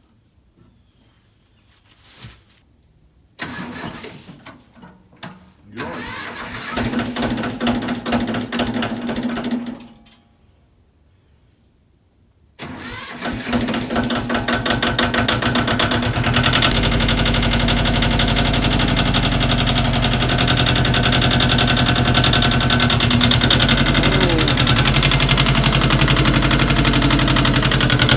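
Tractor engine starting, running for a few seconds and stopping, then starting again about halfway through and settling into a steady run that grows louder a few seconds later.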